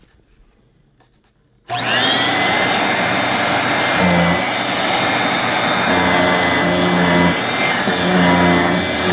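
1985 Hoover Brush Vac switched on about two seconds in: its motor whine rises quickly to speed, then runs steadily with the brushroll turning. A lower hum swells and fades every second or so.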